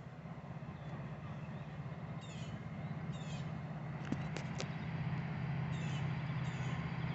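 EMD GP40-2 diesel locomotive's turbocharged V16 two-stroke engine approaching, its low drone growing steadily louder. Birds chirp a few times over it.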